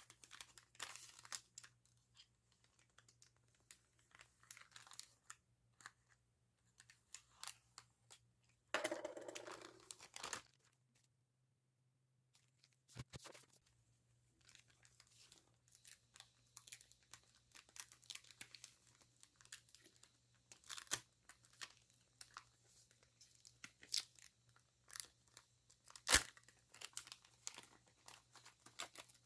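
Mail packaging being opened by hand: soft tearing and crinkling of the envelope and wrapping in scattered rustles, with a louder stretch of rustling about nine seconds in and a sharp click a few seconds before the end.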